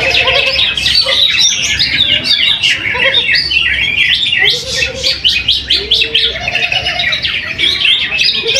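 Greater green leafbird (cucak hijau) singing a fast, unbroken run of chirping, twittering notes, with lower whistled notes from other birds mixed in now and then.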